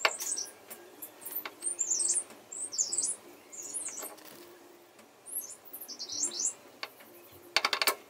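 Small birds chirping in repeated short, high, quick phrases, with a sharp click at the start and a brief rapid rattle of clicks near the end.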